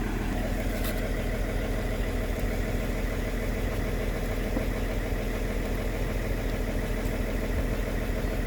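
Excavator diesel engine idling steadily, with an even, unchanging drone.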